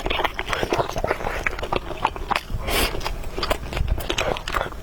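Close-miked eating: wet mouth clicks and smacks of chewing and slurping noodles, with a short sharp slurp nearly three seconds in.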